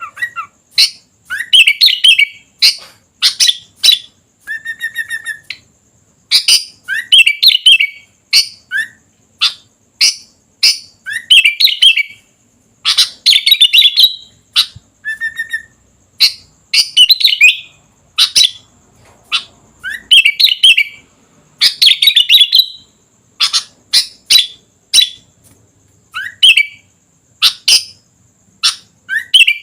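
Sooty-headed bulbul (kutilang) singing loudly: short, sharp chirping phrases, repeated every second or two with brief pauses between them.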